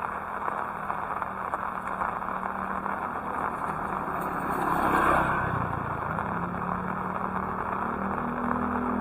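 Steady heavy rain. A vehicle passes on the wet road, swelling and fading about halfway through, and a low engine hum grows louder near the end.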